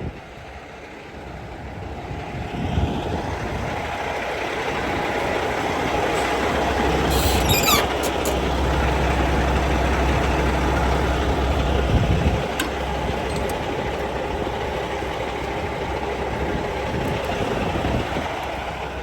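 A heavy vehicle's engine and rumble building over several seconds, loudest in the middle, then easing off, with a brief high squeal about seven seconds in.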